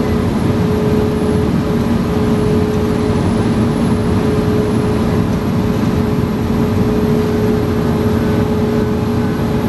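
Fire engine under way at a steady speed: a constant engine drone over road noise, its pitch holding level.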